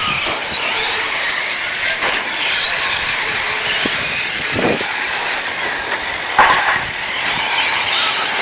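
Several radio-controlled electric 4x4 trucks racing around a track, their motors whining high and rising and falling in pitch as they speed up and slow down, over a haze of tyre and gravel noise. There is a brief louder sound about six and a half seconds in.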